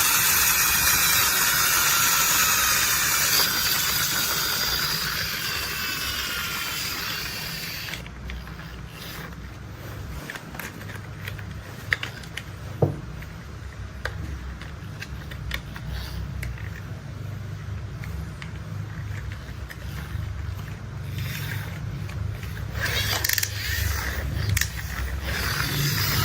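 Heavy-machinery engine rumble with scattered clicks and scrapes of toy parts. At first a bright hiss with sliding whines sits over it; about eight seconds in this gives way to a low steady rumble with sharp clicks, which brightens again near the end.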